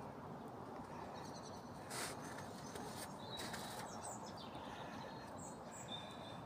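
Birds giving short, high chirps and whistles several times over a steady outdoor background hiss.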